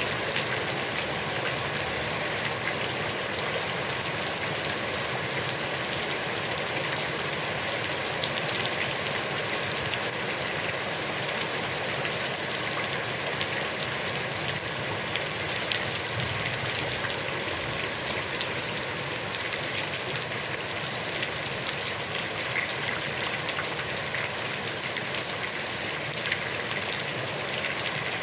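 Heavy rain pouring onto a pond's surface: a steady, dense hiss with countless fine drop ticks.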